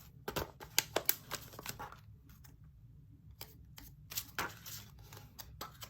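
Scattered light clicks and rustles of small plastic items being handled: resin diamond-painting drill baggies and small plastic storage containers, with a quieter pause about two seconds in.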